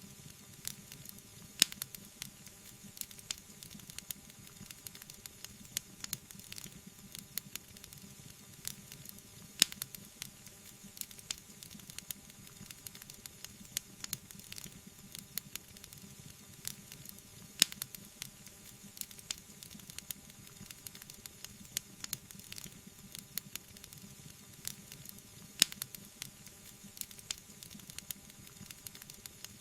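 Wood fire crackling: a steady faint hiss with many small crackles, and a sharper, louder pop about every eight seconds.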